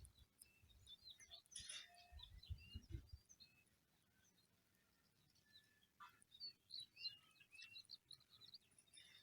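Faint chirping of small birds: many short, high calls scattered throughout, with low rumbling in the first three seconds.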